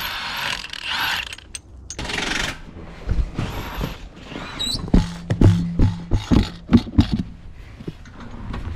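Irregular metallic clicks and knocks of lug nuts and hand tools during a truck wheel swap, after a rustling hiss at the start. A short low hum comes in about five seconds in.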